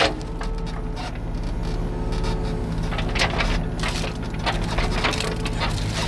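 Excavator's diesel engine running steadily while brush and wood crack and snap under the bucket as overgrowth is cleared.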